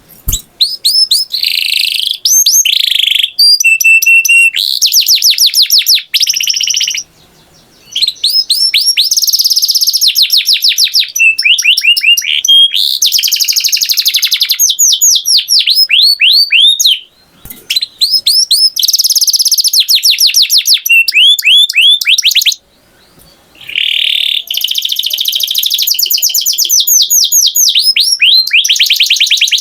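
Canary singing: long, loud phrases of rapid trills, each a fast run of the same repeated sweeping note, changing to a new note every few seconds, with a few short pauses between phrases.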